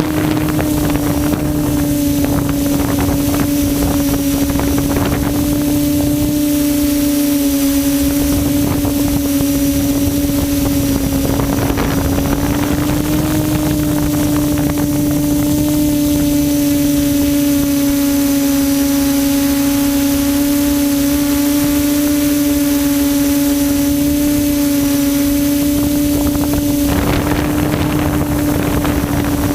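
QAV400 quadcopter's electric motors and propellers humming at a steady pitch that wavers only slightly, with wind noise on the microphone.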